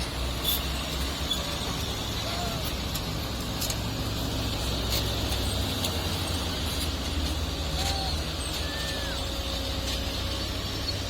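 Heavy mining truck's diesel engine running steadily with a low rumble, with a few faint clicks and short squeaky chirps over it.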